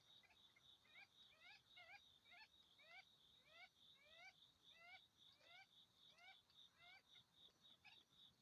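A bird giving a quick series of about a dozen short rising calls, two or three a second, over a faint steady pulsing insect chorus.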